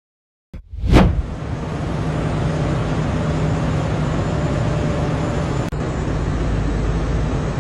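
Heavy truck running: a steady engine drone with road noise and a constant low hum. It comes in suddenly with a loud burst about a second in, and drops out very briefly near the end.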